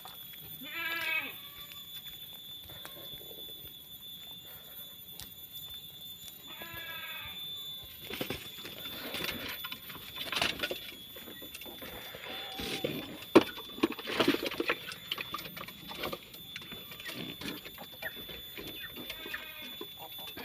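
Three short bleats from a goat or sheep, one near the start, one about a third of the way in and one near the end, with irregular knocks and rustling between them in the second half.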